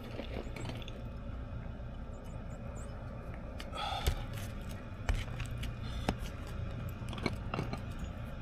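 Faint scraping with a few light clicks and taps as a roof snake nailing tool is worked in under a roof shingle, over a low steady background rumble.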